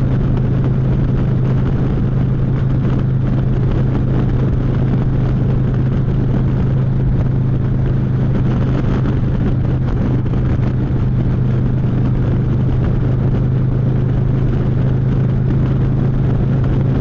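Harley-Davidson Street Glide Special's V-twin engine running steadily under the rider, a constant low drone with no change in revs.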